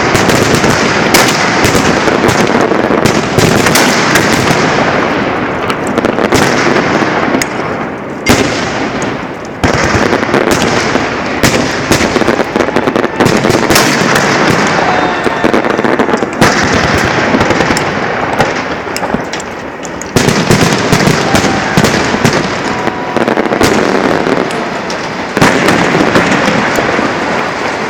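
Fireworks launchers firing a dense barrage: loud bangs in rapid succession, packed so close that they merge into a continuous din, easing briefly a few times before picking up again.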